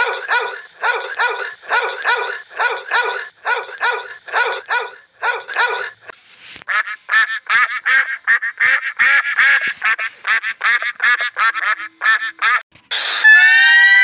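A puppy barks over and over in quick pairs. It is followed, from about six seconds in, by white domestic geese honking in a rapid, chattering run of calls. Near the end a loud, high call with wavering pitch starts.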